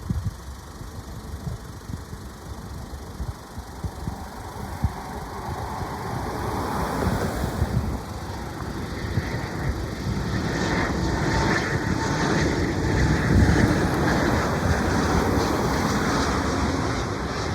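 Aircraft engine noise building up over several seconds, loudest about two-thirds of the way through, then easing slightly, over a constant low rumble.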